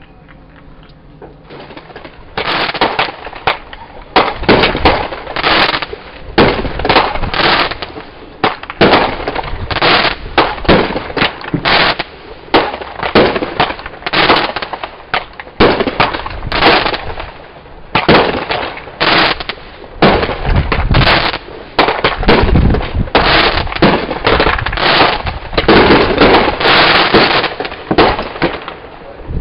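Consumer fireworks going off in a dense, rapid barrage of bangs and crackling. It starts about a second and a half in and keeps going without a break.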